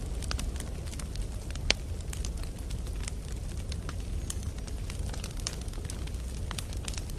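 Wood campfire burning with a steady low rumble and irregular sharp crackles and pops, one louder pop about two seconds in.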